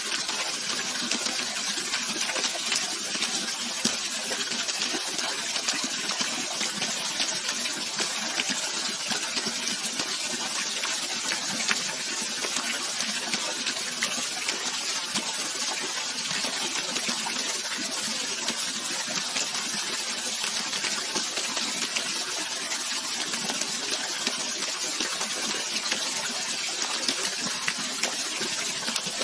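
Steady rush of running water, a continuous even splashing with no pauses.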